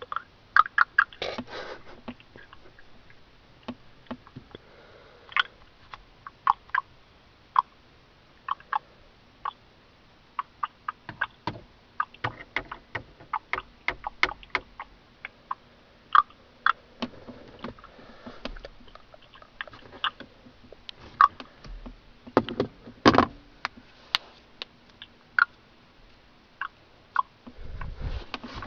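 Clicking noises on a phone call: dozens of short, sharp clicks at uneven intervals, sometimes several close together. The loudest group comes about three quarters of the way through.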